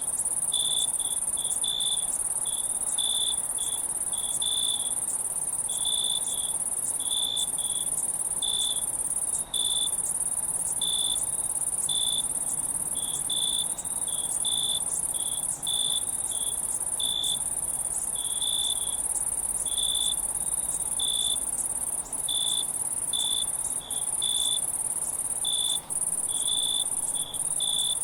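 Insects chirping: short, unevenly spaced chirps, one to two a second, over a steady high-pitched shrill from other insects.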